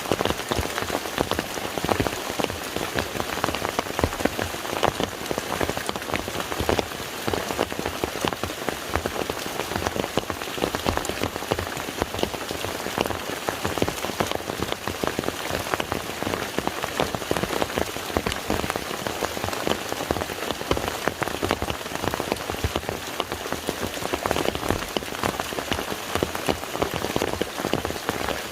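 Steady rain falling on a lake's surface, a dense patter of many small drops.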